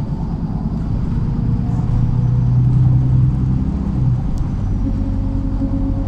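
MAZ-103 city bus engine and drivetrain heard from inside the cabin while driving: the engine note pulls and grows louder, then drops to a lower note about four seconds in.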